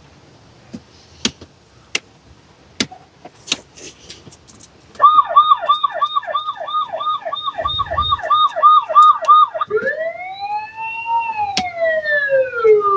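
A few sharp clicks, then the toy ride-on police car's electronic siren sounds through its small speaker: a fast yelp about three times a second, changing after about five seconds to a slow wail that rises and falls before cutting off at the end.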